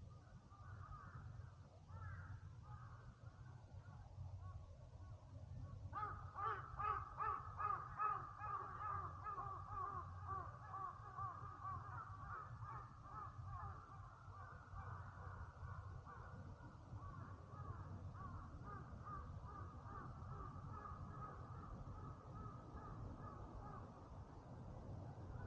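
Crows cawing: a few faint calls, then about six seconds in a long run of quick repeated caws that is loudest at first and slowly fades. A steady low rumble runs underneath.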